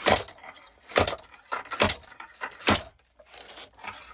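Slide-hammer wedge splitter striking a dry oak log: the heavy upper weight is lifted and dropped onto the pointed blade four times, about a second apart, each drop a sharp impact.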